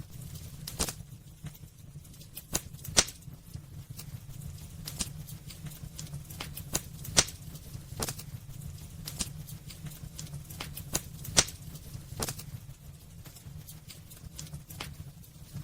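Wood fire crackling in a fireplace: irregular sharp pops and snaps over a steady low rumble. Three pops stand out, spaced about four seconds apart.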